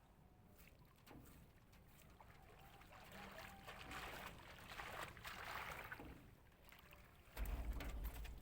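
Faint water swishing and lapping around a small boat, swelling in the middle, then a sudden loud low rumble on the microphone near the end.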